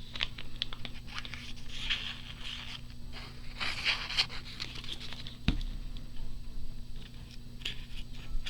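Paper rustling and crinkling in short scrapes as thin, boiled paper pieces are handled and laid on a journal page, with one sharp knock about five and a half seconds in. A faint steady hum lies underneath.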